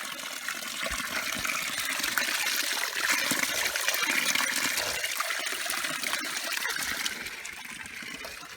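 Mountain stream rushing over rocks, a steady splashing rush that swells louder around the middle and eases off near the end.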